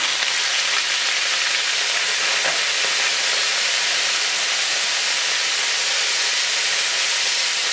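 Lemon juice hitting hot oil in a pan of fried chicken pieces, green chillies and curry leaves over a high flame: a steady sizzle with a hiss of steam.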